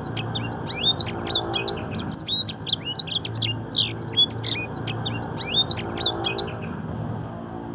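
Domestic canary singing a fast, continuous song of quick, sharply sweeping high notes, its phrases copied from blackthroat song. The song breaks off about six and a half seconds in.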